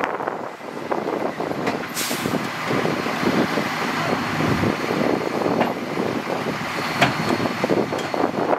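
Heavy dump truck running, with a short hiss of air about two seconds in and a few sharp clicks near the end.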